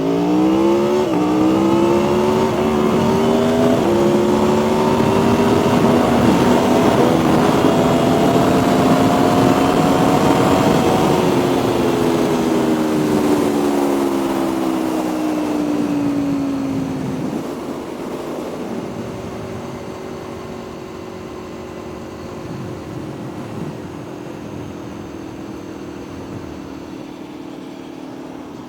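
Aprilia Tuono V4 motorcycle engine under hard acceleration on a drag run. The pitch climbs and drops sharply at upshifts about one and four seconds in. About eleven seconds in the rider rolls off, and the pitch falls as the bike slows, settling to a lower, quieter steady running.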